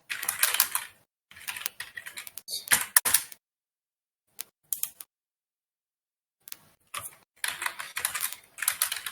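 Irregular bursts of rapid clicking and crackling, broken by stretches of dead silence.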